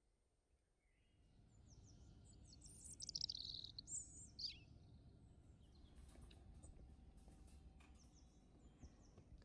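Faint birdsong in the background: a cluster of quick, high, falling chirps a few seconds in, over a low, steady room hum.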